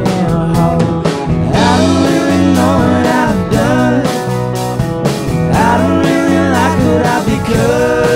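Country-rock band playing a song live, with a lead line that bends and slides in pitch over sustained chords and a steady bass.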